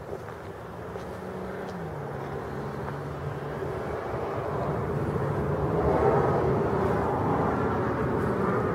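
Engine drone of a passing vehicle, with a pitch that steps down early on. It swells to its loudest about six seconds in and eases off near the end.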